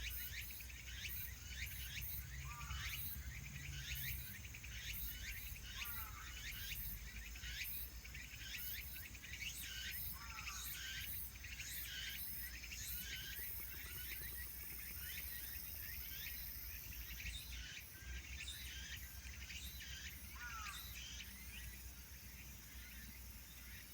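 Outdoor ambience of birds and insects calling: many quick, high chirps falling in pitch, about two a second, with a lower falling call every few seconds, over a steady low background rumble.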